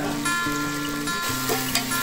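Vegetables sizzling in hot oil in an aluminium pressure cooker while a metal slotted spoon stirs and scrapes them, over background music with held notes.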